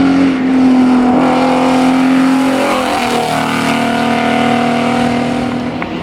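Alfa Romeo Alfetta GTV6's V6 engine pulling hard at high revs on a hillclimb run. The pitch drops once about halfway through, then the engine pulls steadily again.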